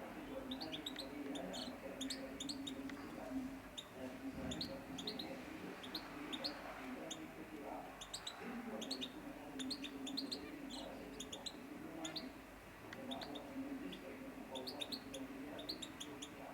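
Pet canaries chirping: many short, high chirps, often several a second, with a steady low hum beneath.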